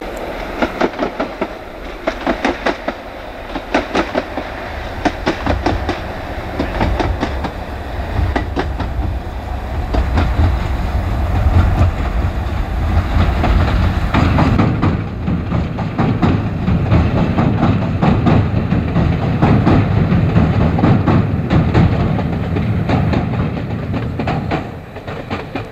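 Passenger train crossing a railway swing bridge: wheels clatter over the rail joints in a rapid rhythm, swelling into a heavy rumble about halfway through and dying away near the end.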